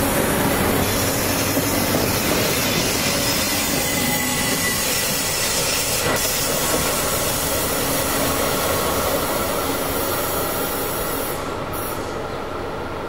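ÖBB Bombardier Talent electric multiple unit running past, a steady rush of wheel and rail noise that slowly fades as the train moves away. Near the end it drops away abruptly to a quieter sound.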